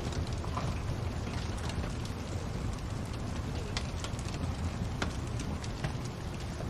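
Wood fire crackling in a fireplace: a steady low rumble under scattered sharp pops and snaps, a couple of louder pops about midway through.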